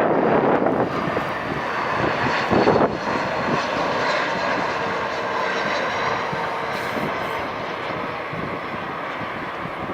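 Jet airliner engines on landing approach passing by: a steady rushing noise with a faint whine, slowly fading.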